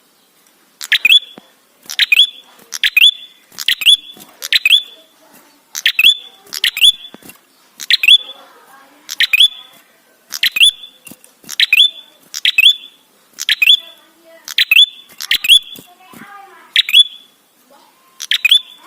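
Tailorbird (prenjak) calling: a steady run of short, sharp chip notes, each sweeping quickly upward, about one a second and sometimes in quick pairs. It is played as a lure call to draw other prenjak into singing.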